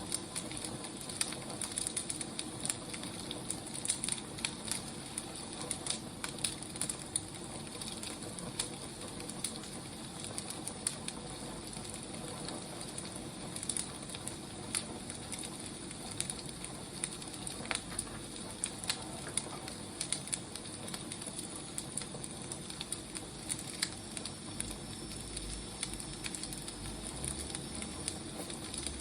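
Burning firewood crackling steadily, with frequent irregular sharp pops and snaps over a soft hiss of flames.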